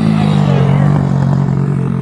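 X Pro Sail 150cc four-stroke pit bike engine running at low, steady revs, its note dropping a little in the first half second and then holding.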